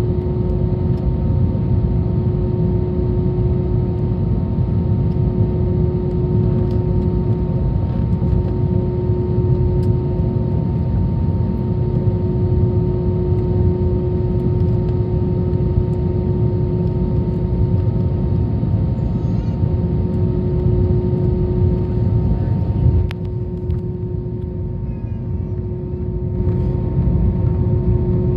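Airbus A321 cabin noise during taxi after landing: a steady engine rumble with a steady drone. About 23 seconds in there is a click and the noise drops for a few seconds, then rises back to its earlier level.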